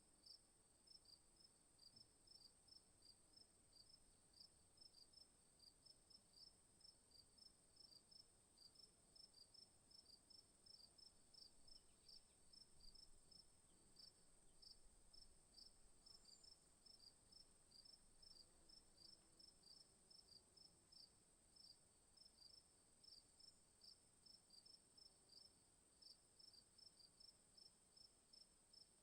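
Faint insects calling: a steady high-pitched whine under a regular chirping, a few chirps a second, that keeps going without a break.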